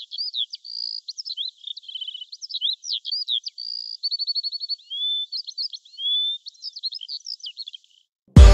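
A songbird singing a varied run of quick chirps, whistled slides and short trills, stopping about eight seconds in. Loud electronic music cuts in at the very end.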